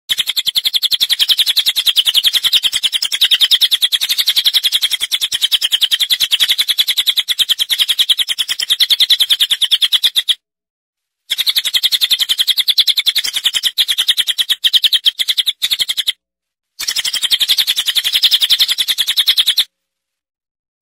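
A bird singing a fast, unbroken string of high chirps, many per second, breaking off twice briefly and stopping shortly before the end.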